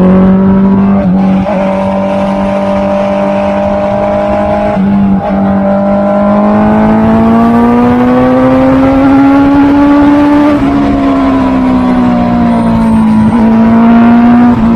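Honda CB650R's inline-four engine running under way with a high, steady note. There are brief breaks in the note about a second in and around five seconds in, as gears change. The pitch climbs slowly between about six and ten seconds as the bike accelerates, then falls back.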